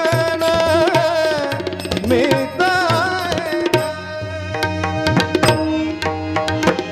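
Devotional bhajan singing: a voice holds a long note with vibrato, then sings a short ornamented phrase. From about four seconds in, the tabla takes over with a quick, dense run of strokes over a steady accompanying tone.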